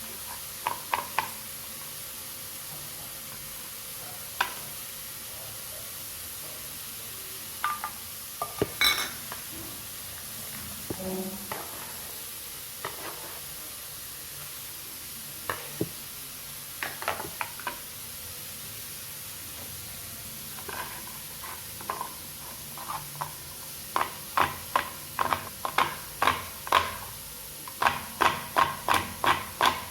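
Knife chopping vegetables on a cutting board: scattered knocks at first, then a steady run of chops, about two a second, near the end.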